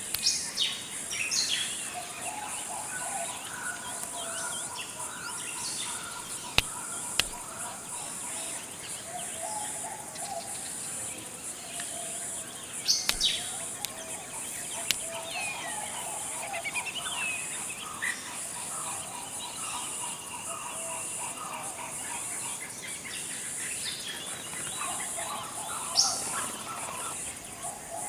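Forest birds calling: short sharp chirps here and there, and runs of lower repeated notes, over a steady high-pitched insect drone.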